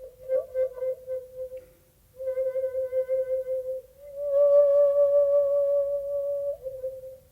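Solo shakuhachi, the end-blown bamboo flute, playing long held notes with short pauses for breath. The notes have a breathy attack near the start, and a slightly higher note is held from about four seconds in before it drops back near the end.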